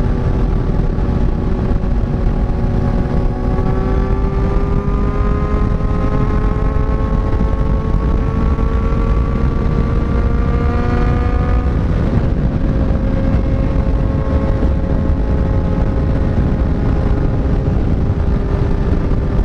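Kawasaki inline-four sport motorcycle engine running at road speed under heavy wind noise; its pitch climbs slowly for several seconds, drops about twelve seconds in, then holds steady.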